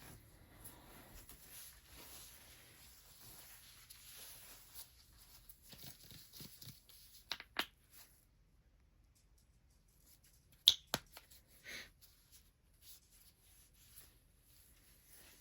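Hands massaging bare feet: soft skin-on-skin rubbing for the first half, then a few sharp clicks, the loudest about eleven seconds in.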